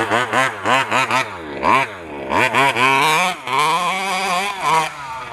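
FG 2WD stadium truck's small two-stroke petrol engine running with the throttle worked up and down, its pitch rising and falling over and over in quick revs.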